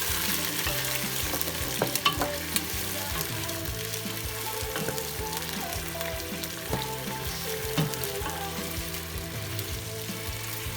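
Food sizzling as it fries in oil in a pan, with a few sharp clicks about two seconds in.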